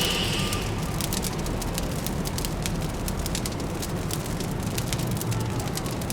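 Fireplace crackling with many quick, irregular pops over a steady low hum of distant city traffic.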